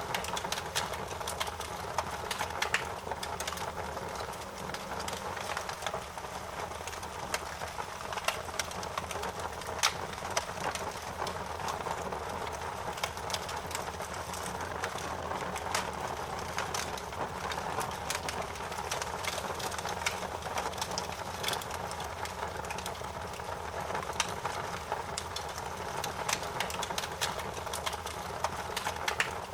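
A fire crackling: many irregular sharp snaps and pops over a steady hiss, with a louder pop now and then.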